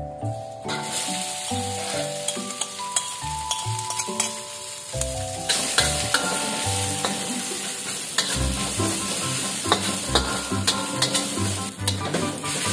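Ground chilli, shallot and garlic paste sizzling in hot oil in a stainless steel wok. The sizzle starts about a second in and grows fuller about halfway, while a metal ladle stirs and scrapes the paste with clicks of metal on metal. Soft instrumental background music plays underneath.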